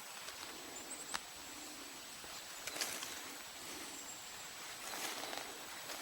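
Scattered rustling and steps through forest undergrowth, with a short sharp click about a second in.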